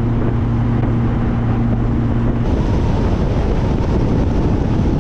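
Classic car cruising on the highway: a steady low engine hum with road and wind noise. About halfway through the hum drops away and a rougher rush of wind and tyre noise takes over.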